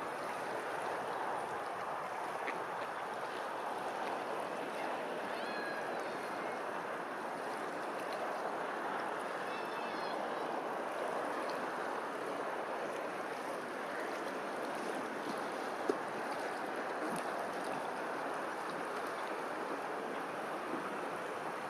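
Steady rushing noise with a few faint high chirps about six and ten seconds in.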